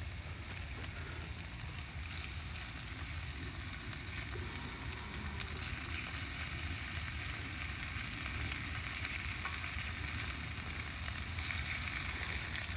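Peppers, mushrooms and potatoes frying over a campfire: a steady sizzle with fine crackling.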